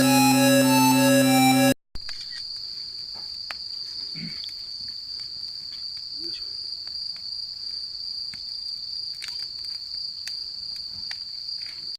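Background keyboard music for about the first two seconds, then cuts off; after a brief gap, insects trill steadily in one unbroken high-pitched tone, with faint scattered ticks.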